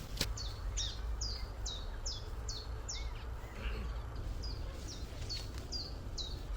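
A songbird calling: a series of short, high, downward-sliding chirps, about two a second, with a pause of about a second midway, over a steady low rumble.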